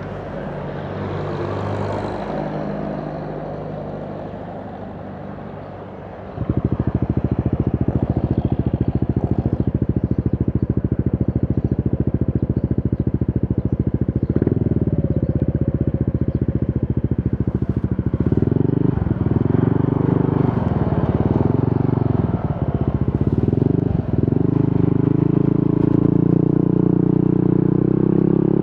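Yamaha NMAX 155 scooter's single-cylinder engine running through an aftermarket VMAX Onyx muffler. It is quieter at first, then about six seconds in the exhaust note jumps to full loudness and idles steadily with a fast pulsing beat, with throttle blips in the middle and revs rising near the end.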